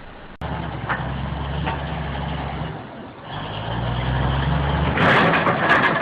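Vehicle engine and road noise, a steady low drone cut together from two recordings. About five seconds in, a louder rough noise with several sharp knocks sets in.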